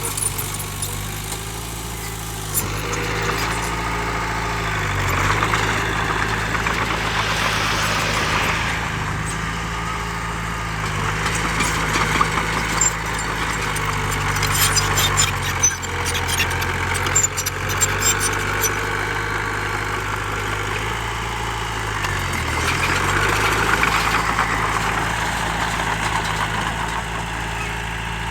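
Heavy diesel engine of earthmoving machinery running steadily, its pitch dipping and recovering twice as it takes load. Through the middle there is a spell of clattering and scraping.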